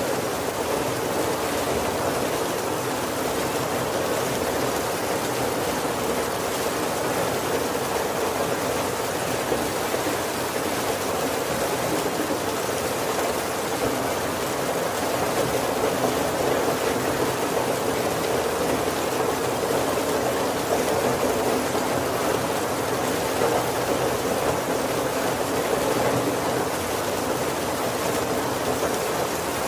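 Steady heavy rain falling on a wooden carriage roof and windows, heard from inside.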